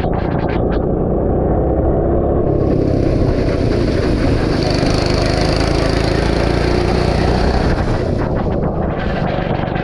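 Go-kart engine running on an onboard helmet camera, its pitch wavering as the throttle changes, over heavy wind and rumble. A steady hiss comes in about two and a half seconds in and fades near eight seconds.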